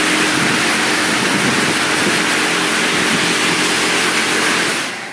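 Touch-free automatic car wash spraying water from its nozzles onto a car: a steady hiss of spray with a faint pump hum underneath, cutting off about five seconds in.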